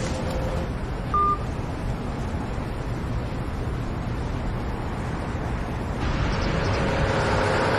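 A single short electronic beep about a second in, the tone of a mobile phone ending a call, over a steady low rumble. Near the end a hiss swells up.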